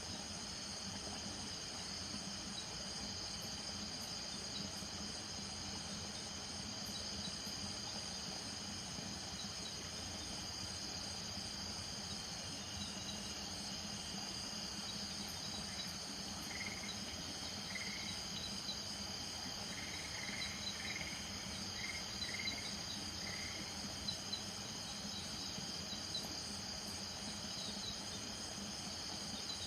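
Night chorus of crickets and other insects: steady, high-pitched, overlapping trilling, with a few short chirps about halfway through.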